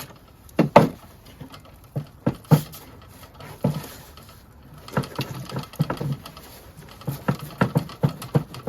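Irregular clicks, taps and knocks of hand tools and plastic housing parts being worked as the chute of an Echo ES-250 shredder-blower is loosened, with a quicker run of clicks near the end.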